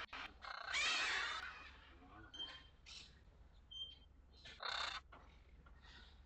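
Birds calling: a series of harsh, raspy calls, the longest lasting about a second near the start and shorter ones following at irregular gaps, with a couple of brief thin chirps between them.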